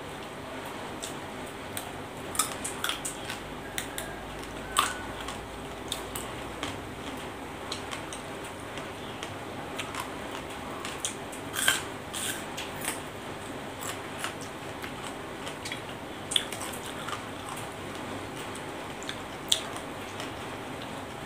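Close-up eating sounds: chewing and biting into raw vegetables such as pea eggplants, with sharp, crisp crunches scattered irregularly through it over a steady background hiss.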